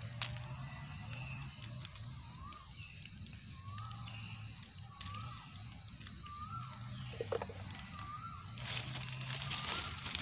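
A bird repeating a short rising-and-falling call about once every second and a bit, over a steady high hum. Near the end comes a burst of dry-leaf rustling.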